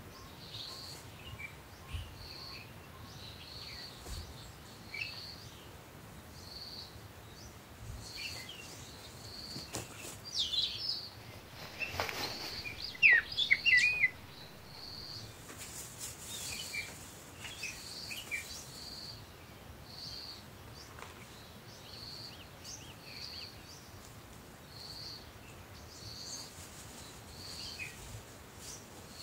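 Small birds chirping: one short high note repeats about once a second throughout, with louder bursts of quick, sweeping chirps around the middle and again at the end.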